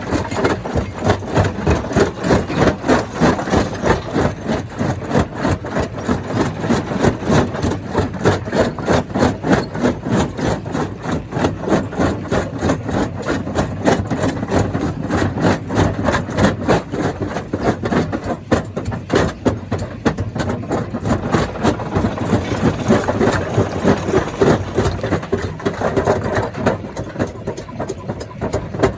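Stone crusher plant running under load: a steady machine drone with continuous rapid clattering and knocking of rock being crushed.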